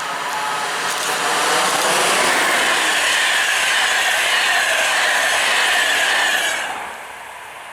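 Express passenger train passing at speed: a loud, steady rush of wheels on rail and air with slowly falling tones. It drops off quickly about six and a half seconds in as the end of the train goes by.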